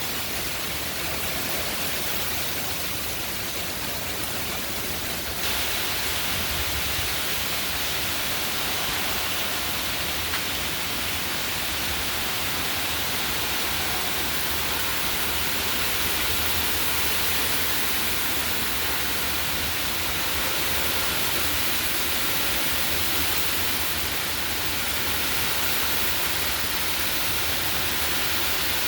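Heavy hurricane rain pouring down in a steady, dense hiss, growing louder about five seconds in.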